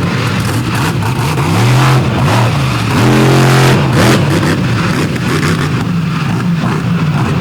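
Monster truck's big Chevrolet engine revving hard, its pitch rising and falling over and over as the throttle is stabbed and released, and held at high revs briefly about three seconds in.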